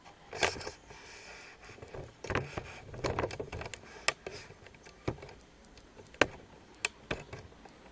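Handling noise from small objects being moved about on a work surface: a scattered series of sharp clicks and taps with short rustles in between, about one every second.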